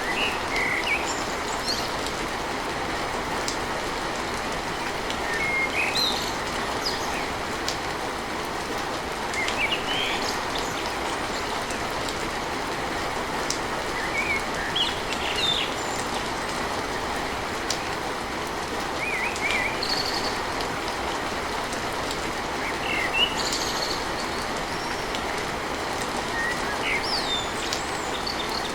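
Steady rain drumming on a tin roof, with a bird giving short chirps every few seconds.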